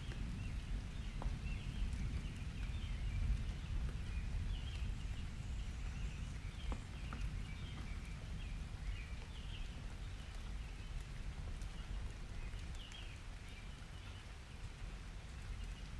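Summer rain and thunder ambience: a steady low rumble of thunder with birds chirping throughout and a few scattered drip-like ticks.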